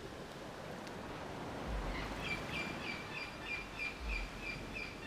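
A bird calling a steady series of short, high chirps, about three a second, starting about two seconds in, over a faint outdoor background hiss. Two soft low thuds are heard along the way.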